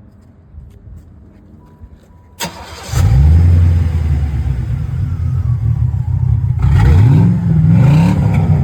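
Impala SS clone's 4.3-litre "baby LT1" V8 with a Flowmaster exhaust, cranked and firing up loud about two and a half seconds in, then idling with a deep steady rumble. It is revved twice near the end.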